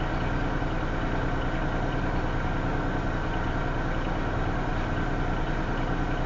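Union Pacific and Norfolk Southern diesel-electric freight locomotives running with a steady, even engine hum as the train creeps off from a stop at under 1 mph.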